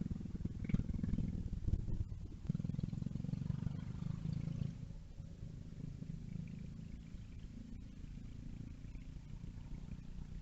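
Mini bike engine running and receding, its low buzz fading and dropping away about halfway through.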